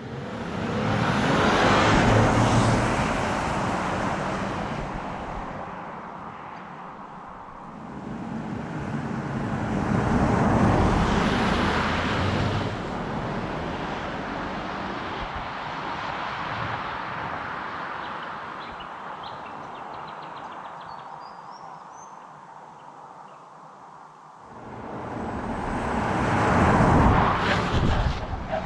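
2020 Lexus LS 500 F Sport's 3.5-litre twin-turbo V6 being driven hard, its sound swelling and fading three times.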